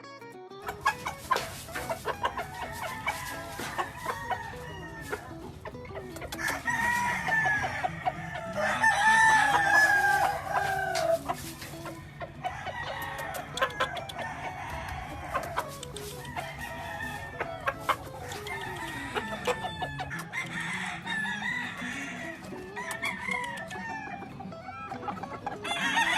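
Gamefowl roosters crowing several times, long wavering crows, with clucking and many short sharp clicks between them.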